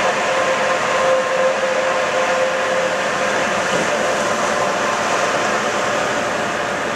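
Steady cab noise of a semi truck rolling at highway speed: engine drone mixed with road and wind noise.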